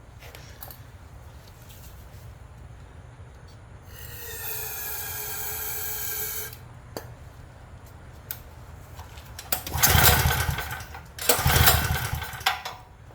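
Craftsman generator's small engine being cranked by its recoil pull-starter without catching. About four seconds in there is a whirring pull that slows a little, and near the end come two loud, rough pulls. It is cranked with a spark tester in line, and the spark shows weak, which the owner puts down to the ignition coil.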